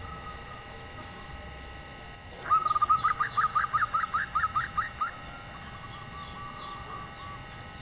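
Female zebra dove (perkutut) calling with a rapid rolling trill of short cooing notes, about five a second, starting about two and a half seconds in. A fainter, softer trill follows. This is the female's call to males, used as a lure to get male zebra doves to call. Small birds chirp faintly in the background.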